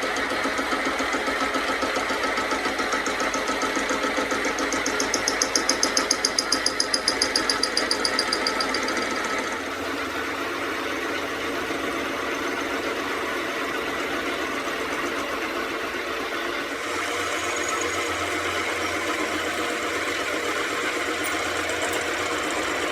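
A motor-driven machine running steadily. Its sound turns into fast, regular pulsing with a high ringing from about five seconds in to nearly ten seconds, then settles back to a steady running sound.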